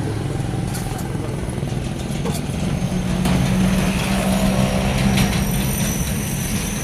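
A motor vehicle engine running steadily with a low hum. Its note strengthens and gets louder about three seconds in, then eases near the end.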